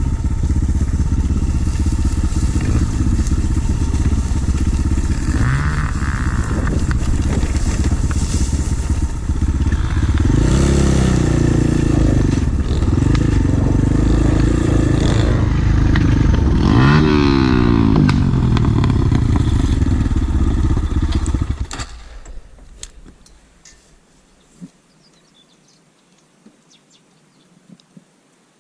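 Pit bike engine running under way, with wind noise on the microphone, revving up and back down several times. About 21 seconds in the engine sound dies away over a couple of seconds, leaving a quiet background with a few faint clicks.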